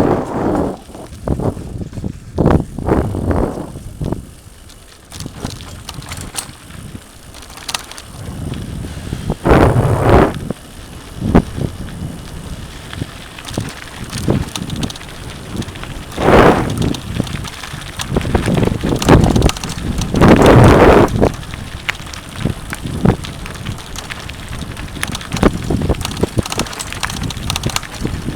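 Mountain bike riding down a rough dirt trail: tyres crunching over the ground and the bike rattling over bumps, with irregular clicks and knocks. Wind buffets the microphone in strong gusts, loudest around ten seconds in and again near sixteen and twenty seconds.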